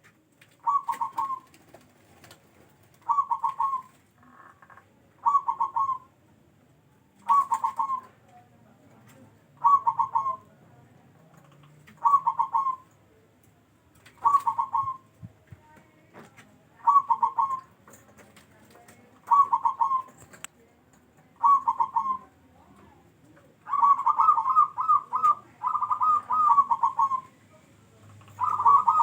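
Zebra dove (perkutut) singing: a short trilled coo phrase repeated about every two seconds, running into longer, closer-packed phrases near the end.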